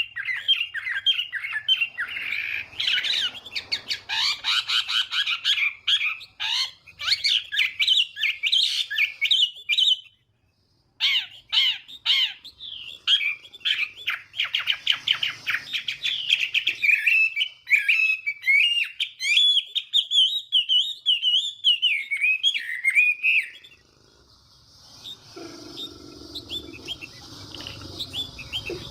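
Chinese hwamei singing a loud, rapid song of varied whistled phrases. The song breaks off for about a second around ten seconds in, resumes, and falls away to a much quieter stretch near the end.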